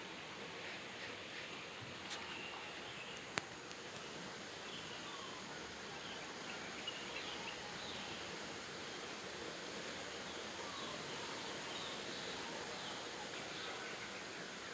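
Steady rush of flowing water, with scattered faint bird chirps over it. A single sharp click stands out about three seconds in.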